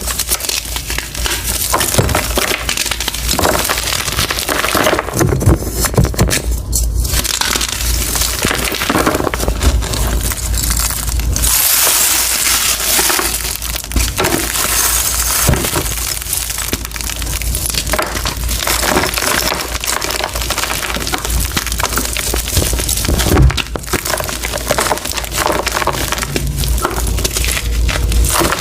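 A reformed gym chalk block being crushed, a continuous dense crunching made of many small cracks and crumbles.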